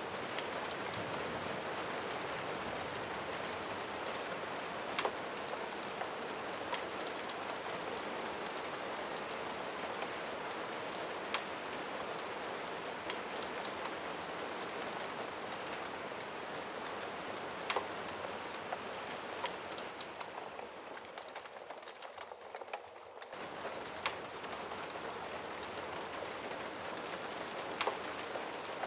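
Steady rain falling, with scattered sharp drop ticks. It thins out for a couple of seconds near the twenty-second mark and comes back abruptly.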